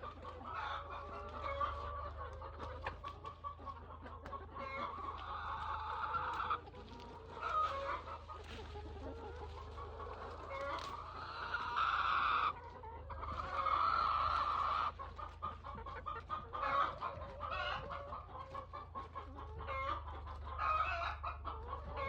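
A flock of free-range chickens clucking throughout, with a few longer drawn-out calls about five, twelve and fourteen seconds in.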